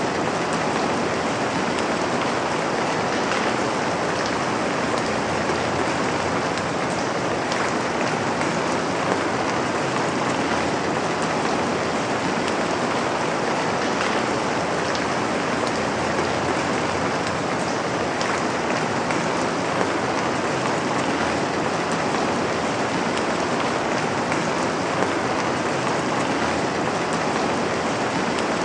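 Steady rainfall, a continuous even hiss of rain on a surface with scattered individual drop ticks.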